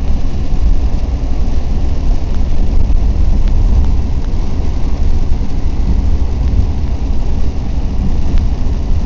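Car cabin noise while driving in heavy rain: a steady low rumble with an even hiss of rain and wet tyres.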